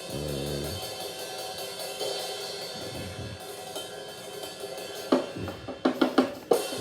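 Multitrack drum kit recording played back through a mixing session's overhead microphone tracks: ringing cymbals for about five seconds, then a run of sharp drum hits from about five seconds in. The overheads are being EQed to bring down hi-hat bleed.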